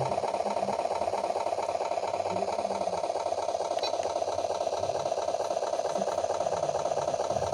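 Electronic engine-sound module playing a simulated engine idling through a small speaker, a steady, fast, even rattling chug just after the start-up sequence.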